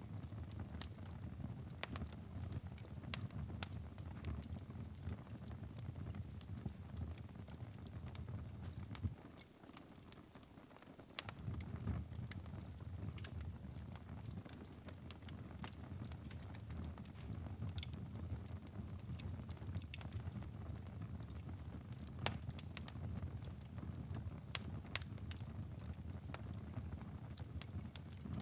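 Wood fire burning in a fireplace: a low rumble of flames with frequent, irregular sharp crackles and pops. About ten seconds in, the low rumble drops away for about two seconds while a few crackles continue.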